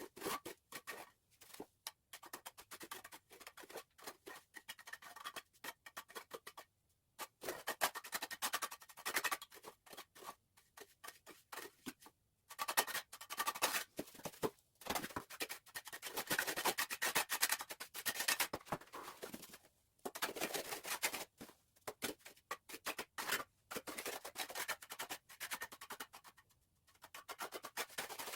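Irregular scraping strokes of a trowel working cement.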